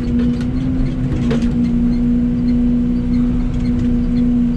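Excavator engine running with a steady drone, with a few faint knocks and clanks, one about a second in.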